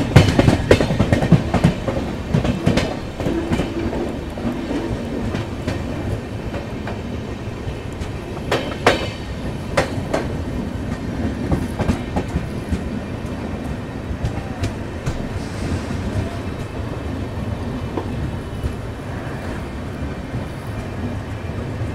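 Passenger train running, heard from the side of a moving coach as it picks up speed: a steady rumble of wheels on rails with heavy clattering over points and joints at first, and a few sharp clacks about nine and ten seconds in.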